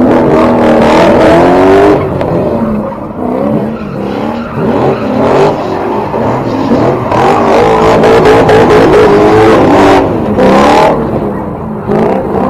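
Car engines revving again and again, their pitch rising and falling, with more than one engine audible at once. Two short rushes of noise cut in, about five and about ten seconds in.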